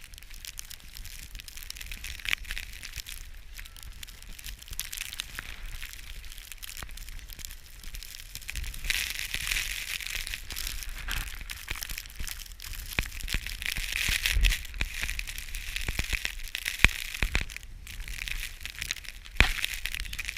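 Footsteps in boots crunching through snow: a continuous irregular crackle with a few sharper, louder crunches.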